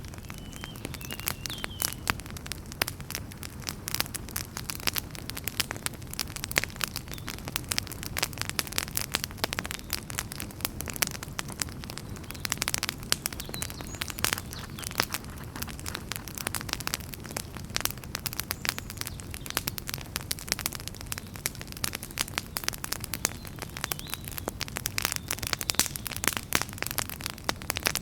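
Wood fire burning in a fireplace: a steady low rumble of flames under dense, irregular crackles and pops from the burning logs.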